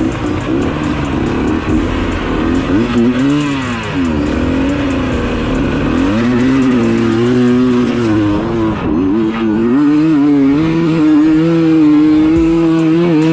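Dirt bike engine revving, its pitch rising and falling repeatedly over the first half, then holding steadier with small wobbles in the second half.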